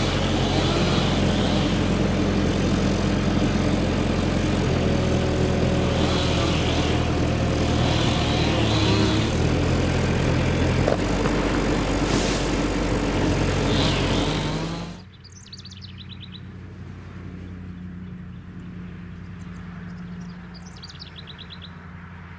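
A large engine running steadily, then dropping away sharply about fifteen seconds in. A fainter steady engine hum stays on, with birds chirping in short trills.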